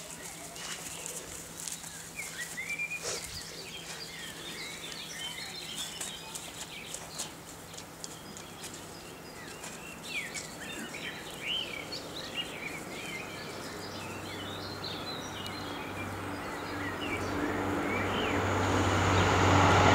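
Small birds chirping and singing in short, varied calls, with scattered faint clicks. Over the last several seconds a low hum with a rushing noise grows steadily louder.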